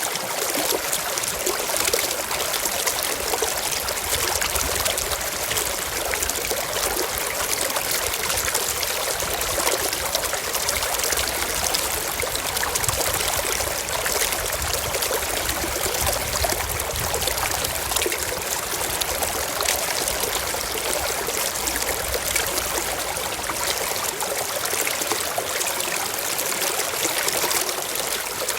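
Forest stream flowing steadily over rocks, a continuous trickling and burbling of water.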